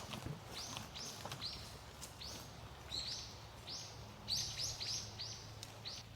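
A small bird chirping about a dozen short, rising calls in irregular groups, over a faint low hum.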